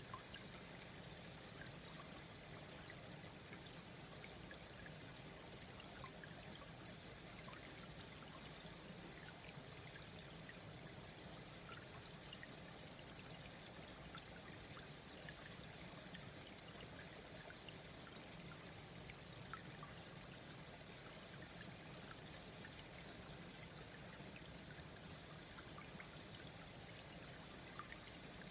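Small stream flowing gently: a faint, steady babble of water with tiny scattered drips and splashes.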